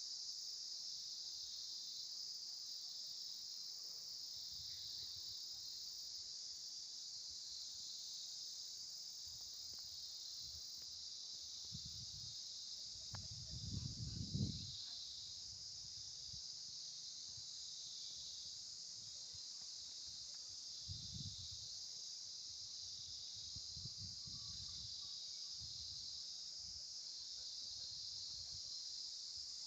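A steady, high-pitched insect chorus buzzing without a break, with a few low rumbles, the loudest about halfway through.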